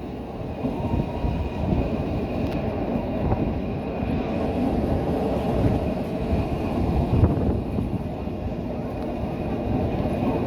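Train hauled by the 031T steam locomotive No. 3714 running along the line: a steady rumble of wheels and carriages, with a faint high-pitched whine over it.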